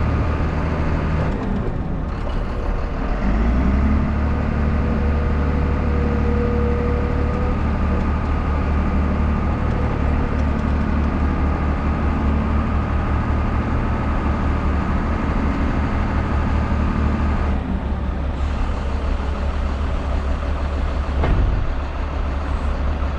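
Diesel engine of a small Caterpillar loader running steadily, its pitch shifting at times as it works unloading logs off a log truck, with a single knock near the end.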